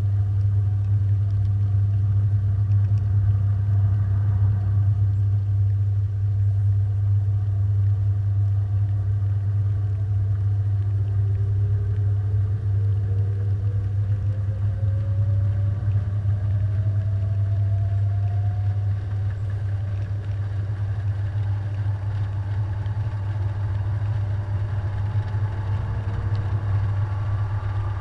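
Washing machine running, heard from inside the drum: a steady low hum, with a fainter whine that rises in pitch from about eleven seconds in and again near the end as the motor speeds up.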